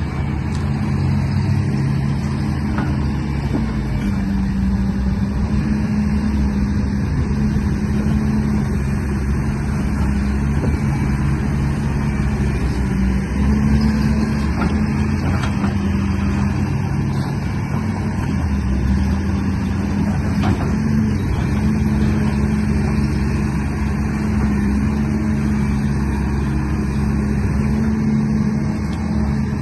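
A vehicle engine running steadily, a low hum whose pitch shifts slightly every few seconds over a rumble.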